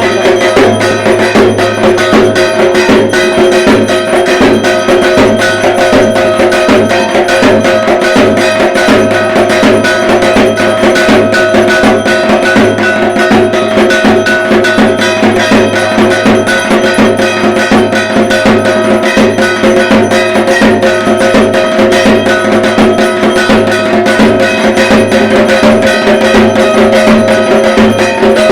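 Dhak, the Bengali barrel drums of Durga Puja, beaten nonstop in a fast, dense rhythm, with steady ringing tones sounding over the strokes.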